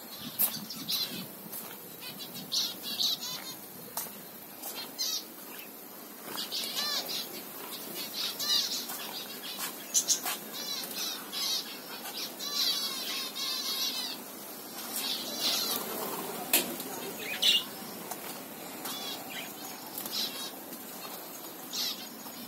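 Small cage birds in an aviary chirping and chattering, with many quick, wavering high-pitched calls overlapping, plus occasional sharp clicks.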